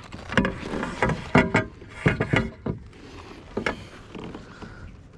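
Irregular knocks and clatters on a fishing kayak: about eight sharp hits in the first few seconds, then it falls quiet.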